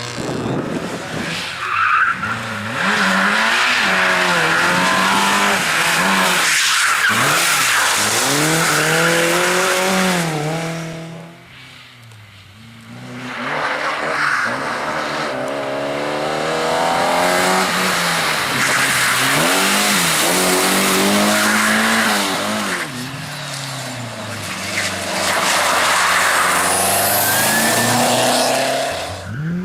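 Amateur rally cars driven hard, engines revving up and falling back again and again through gear changes and slides, with loud tyre noise. The sound drops away about eleven seconds in, then a car comes back loud and runs hard again.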